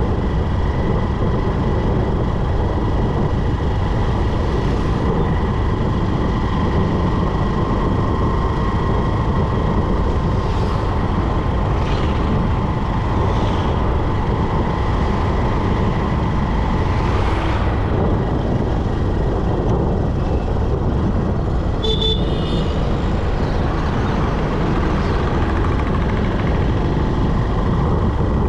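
Motorcycle ride through city traffic: steady engine and road-and-wind noise on the mounted microphone, with a few passing vehicles and a brief beep about three quarters of the way through.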